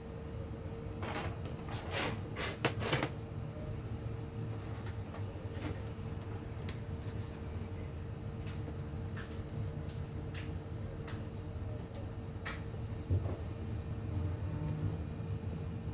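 Scattered light clicks and taps, several close together about a second in and single ones after that, over a steady low hum.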